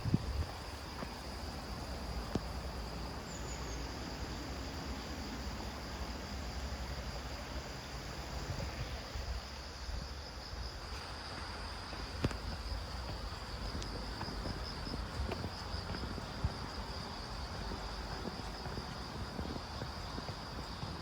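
Late-summer insects trilling in a steady high drone with a fine pulse, over a low background rumble.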